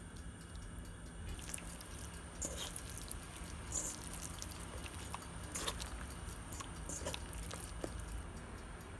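Faint, scattered small clicks and soft squishy sounds of food being handled, over a steady low hum.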